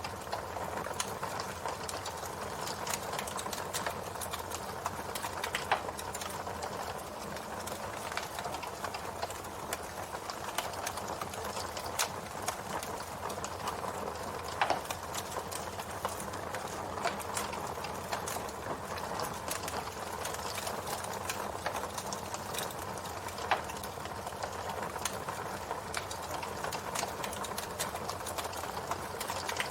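Campfire burning: a steady hiss with many small crackles from the burning wood, and a few louder pops scattered through.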